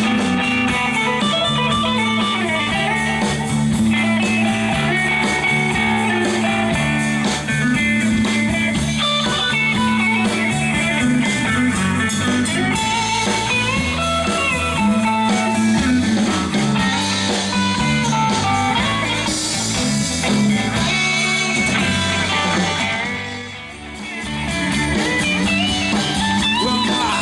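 Live rock band playing an instrumental passage led by electric guitar over bass and drums. The music dips briefly about three-quarters of the way through, then picks up again.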